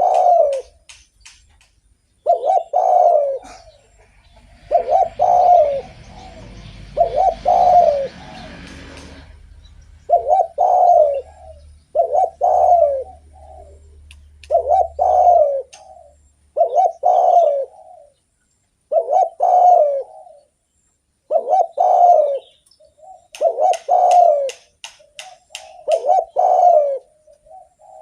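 Spotted dove (derkuku) cooing over and over, one short cooing phrase every second or two. A hiss of noise runs under the cooing for several seconds near the start.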